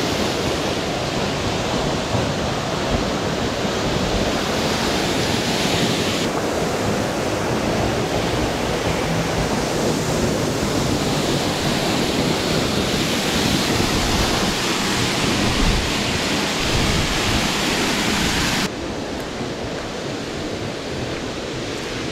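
Steady rushing roar of a 46 ft waterfall pouring down. Near the end the sound turns abruptly quieter and duller.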